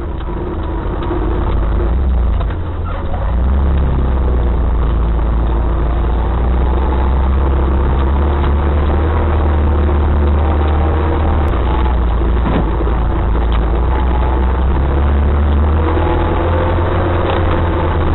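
Off-road vehicle driving with its engine running steadily under a heavy, constant low rumble.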